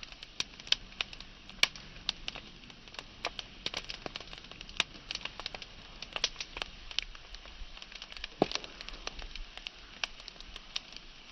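Wood fire burning, with frequent irregular sharp crackles and pops over a soft steady hiss.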